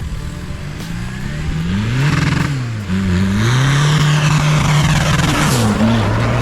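An off-road 4x4's engine revving hard: it climbs, drops back, then holds at high revs with a brief dip near the end, under a loud rushing noise.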